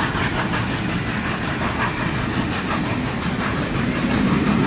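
Union Pacific passenger cars rolling past: a steady rumble with a regular clickety-clack of the wheels on the rails.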